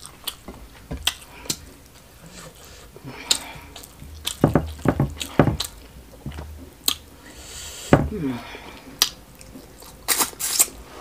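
Close-up mukbang eating sounds: wet lip smacks and sharp chewing clicks as smoked catfish stew and rice are eaten by hand, with a brief falling hum about eight seconds in.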